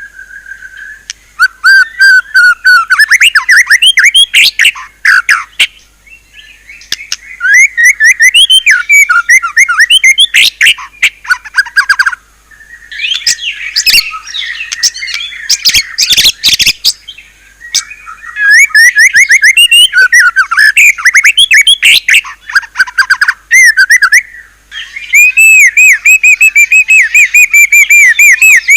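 White-rumped shama (murai batu) singing loudly in five long runs of rapid, varied whistles and chattering trills, each several seconds long with short pauses between, a song full of phrases borrowed from other birds.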